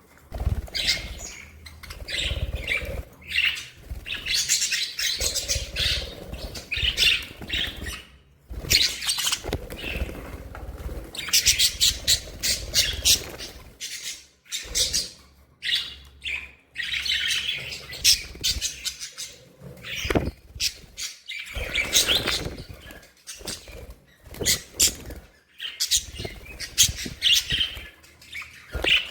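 Budgerigars chirping and chattering in fast, overlapping warbles, with low fluttering bursts underneath and a couple of brief lulls.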